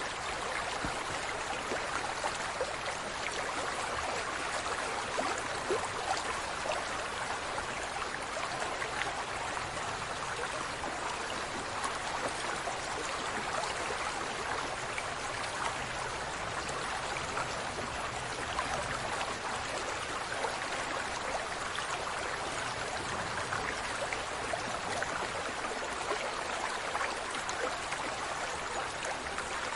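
Steady running water with fine crackling and trickling detail; no animal calls stand out.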